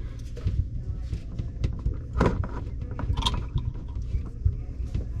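Scattered clicks and knocks from plastic fittings and tubing being handled under a kitchen sink, the loudest about two seconds in, over a steady low hum.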